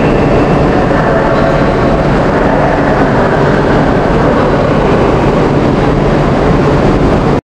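Steady loud rumble and hum of a passenger train standing at a station platform.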